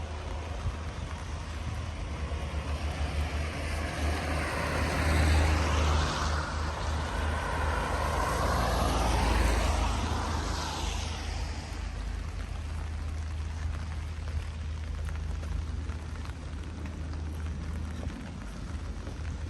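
A vehicle driving past on a wet street, its tyre hiss swelling a few seconds in, peaking twice and fading away by about twelve seconds, over a steady low rumble.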